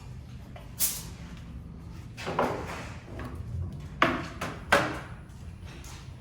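Tools knocking and clanking against the truck's rear suspension as a shock and coil spring are worked loose: four sharp knocks, about a second in, near the middle and twice close together later, over a steady low shop hum.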